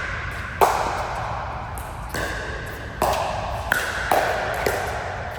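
A rally of sharp ball strikes, roughly one every half second to a second, each with a short ringing tail.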